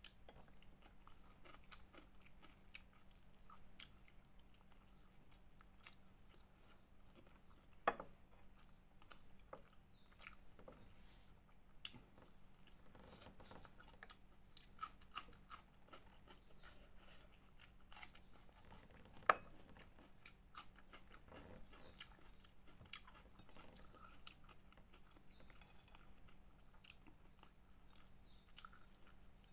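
Faint close-miked chewing and crunching of fried fish and raw young ginger, with scattered sharp crunches every few seconds, the loudest about eight and nineteen seconds in.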